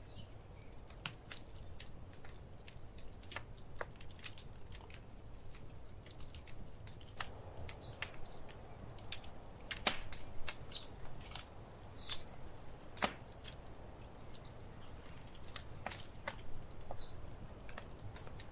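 Wood fire crackling in a fireplace: irregular sharp snaps and pops, a few louder ones, over a low steady rumble.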